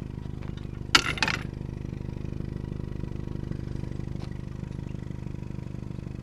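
Long metal pipes knock together about a second in: one sharp metallic clank, then a couple of lighter knocks. Under it an engine idles with a steady hum.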